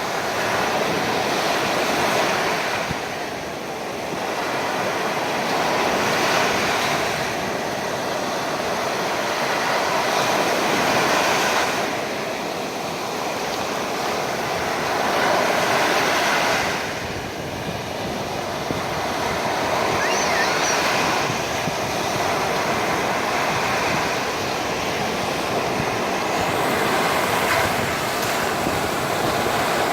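Sea waves breaking and washing up a sandy beach, the surf swelling and easing every few seconds, with some wind on the microphone.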